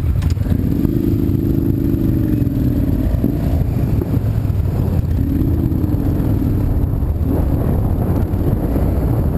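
A road vehicle on the move: a steady low rumble of driving and wind on the microphone, with an engine tone that shifts in pitch a few times, dipping about two and a half seconds in.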